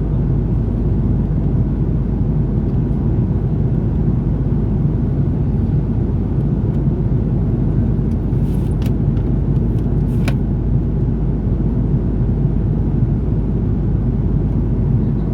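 Steady low rumble of cabin noise inside an Airbus A330-343 airliner, from its Rolls-Royce Trent 700 engines and the airflow, holding an even level throughout. Two faint clicks come a little past the middle.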